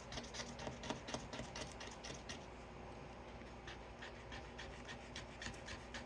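Scratching the coating off a scratch-off card: quick, repeated rasping strokes, with a short lull midway.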